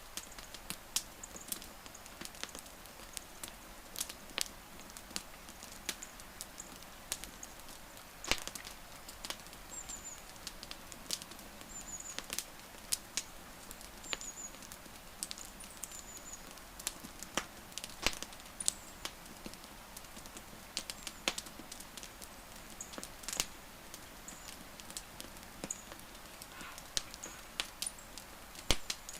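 Wood fire crackling, with irregular sharp pops and snaps over a steady hiss of burning. Faint short high chirps come every couple of seconds for a while in the middle.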